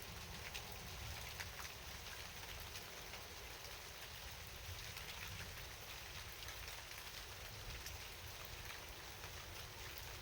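Steady rain falling: an even hiss dotted with many small, separate drop ticks, over a low rumble.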